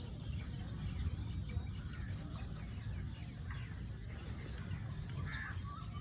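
Outdoor rural ambience: a steady low rumble with scattered faint bird chirps, one a little clearer about five seconds in.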